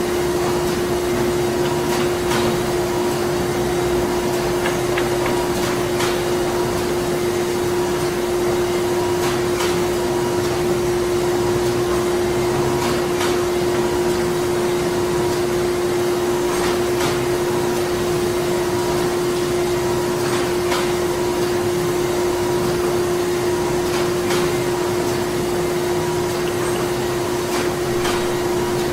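Printing plant machinery running steadily: a constant machine hum with one strong held tone, over a wash of mechanical noise. Faint clicks come through irregularly.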